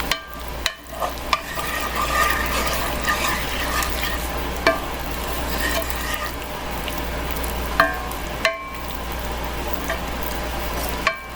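A utensil stirring a creamy sauce of sour cream and cream cheese thinned with a little water in a hot skillet. The sauce sizzles steadily, and the utensil clicks against the pan now and then.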